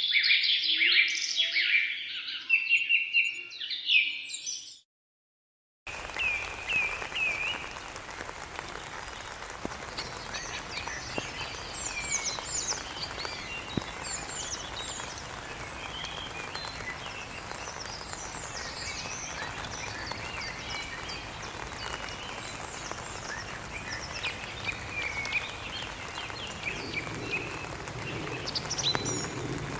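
Small birds calling and chirping: a dense burst of loud high calls for the first few seconds, a brief break of silence, then many short high chirps and quick downward-sweeping notes over a steady background hiss.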